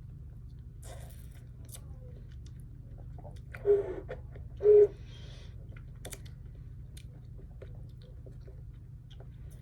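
Close-up chewing and crunching of food, with two short, loud slurps, about a second apart near the middle, as a thick milkshake is sucked through a straw.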